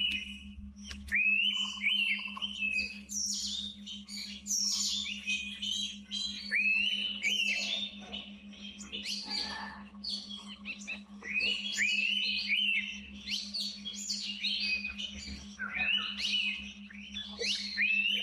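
Indian pitta giving its two-note whistle, the paired notes coming about three times, over a busy chorus of other birds' higher chirps. A faint steady low hum runs underneath.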